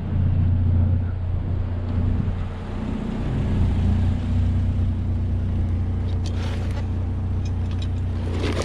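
Vehicle engine running steadily while driving, a low even drone, with a few light ticks or rattles about two-thirds of the way through.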